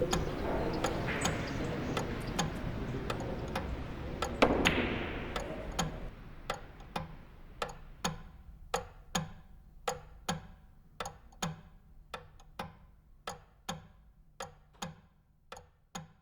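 Clock ticking steadily, about two ticks a second. A denser background ambience fades out over the first six seconds, leaving the ticks alone.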